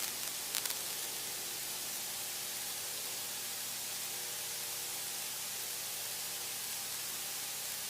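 Steady hiss of the aircraft's headset and intercom audio feed while no one is talking, with a faint steady hum from the taxiing Cessna's engine underneath.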